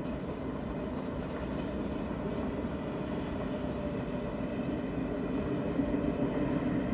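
KTX-Sancheon high-speed electric train passing at a distance: a steady rumble of wheels on rails that grows a little louder near the end.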